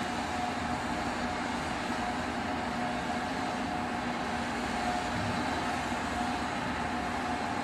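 Steady machinery hum: an even rushing noise with two constant tones, one low and one in the middle range, unchanging throughout.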